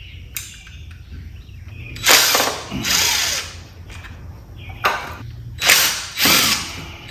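Cordless impact wrench run in several short bursts on a stuck Phillips screw holding a motorcycle carburetor's float bowl, trying to break it loose.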